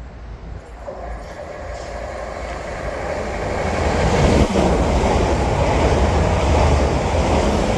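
South Western Railway passenger train approaching and running along the platform: the rumble of wheels on rail builds steadily over the first four seconds and then holds loud, with a single clack about four and a half seconds in.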